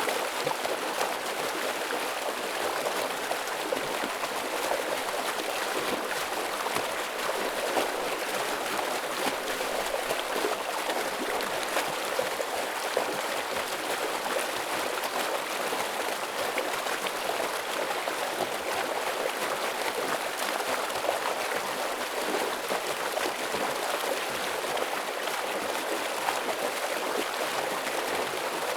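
Heavy flow of a stream running over rocks: a steady, dense rush of water with no let-up.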